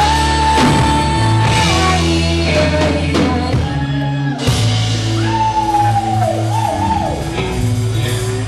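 A live rock band playing a song: drums, guitar and bass under a held lead line that bends in pitch.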